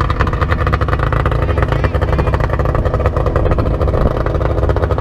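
An engine running steadily at a constant speed, loud and close, with no change in pitch or level.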